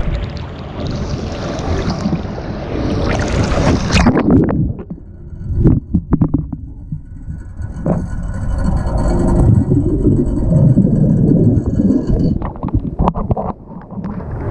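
Pool water splashing around a GoPro action camera, which then goes under the surface about four seconds in. The sound turns muffled and low, with bubbling and knocks, until the camera comes back up near the end.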